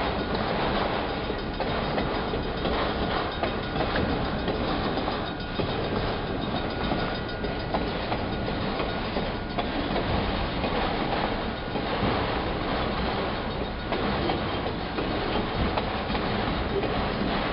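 Freight train of autorack cars rolling past, a steady rumble of steel wheels on rail with irregular clacks over the rail joints.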